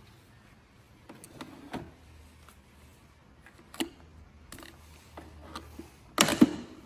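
Scattered clicks and knocks of the coffee maker's plastic parts being handled, with a louder clatter about six seconds in.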